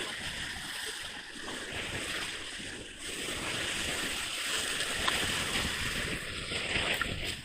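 Rushing whitewater of a river rapid around the raft, a steady noisy wash with no let-up.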